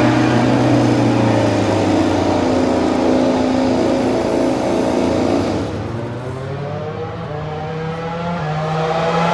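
MotoGP racing motorcycles at speed on the circuit: one bike's engine note holds and slowly drops as it moves away over the first five seconds or so, then another bike's engine comes in with a rising pitch, getting louder near the end.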